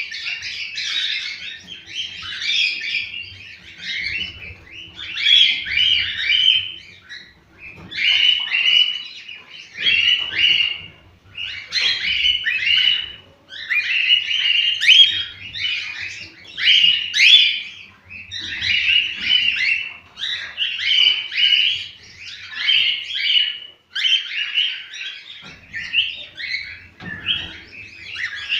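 Cockatiels singing: short, chattering whistled phrases, one burst after another every second or two with brief pauses between.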